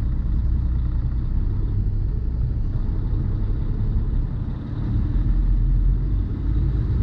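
Tractor-trailer's diesel engine and road noise heard inside the truck cab, a steady low rumble as the rig creeps through a tight turn. The rumble dips briefly about four and a half seconds in, then comes back a little stronger.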